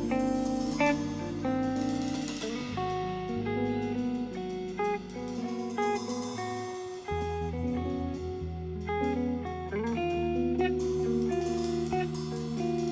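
Live instrumental jazz-style band music: a guitar playing a melodic line of held notes over a walking bass line, with cymbals splashing now and then.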